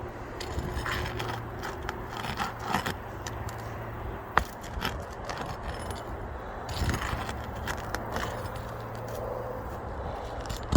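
Asphalt roof shingle being worked loose and pulled out, with irregular scraping, rattling and sharp clicks of a metal tool against it, one louder click about four seconds in.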